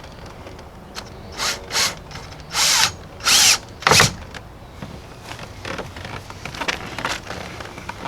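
Cordless screw gun driving screws into a plastic front lip on a car bumper, in five short bursts between about one and a half and four seconds in, the middle two the longest.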